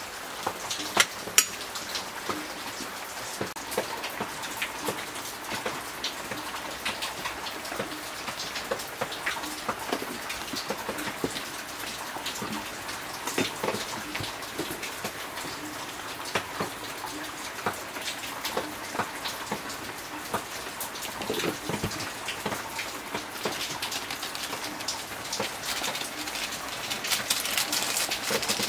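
Pork pieces sizzling in hot fat in a wok, a steady hiss full of small crackles and pops, with the scrape of a metal spatula stirring the meat. It gets a little louder near the end.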